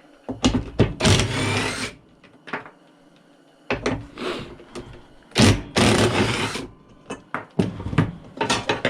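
Cordless power driver running in short bursts of about a second or more, backing bolts out of a chopsaw, followed near the end by sharp metallic clicks and knocks as the parts are handled.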